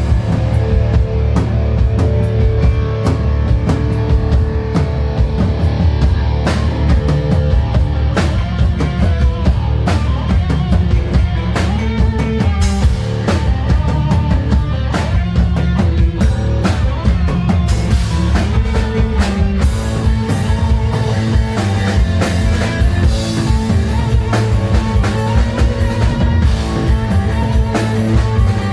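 Live hard rock band playing loud on a concert stage: drum kit with bass drum and cymbals, electric guitars and bass, recorded from the audience.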